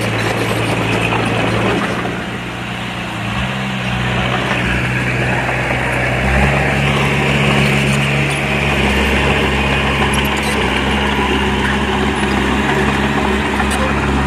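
Diesel engine of earthmoving machinery running steadily, its tone changing about two seconds in and again about six seconds in.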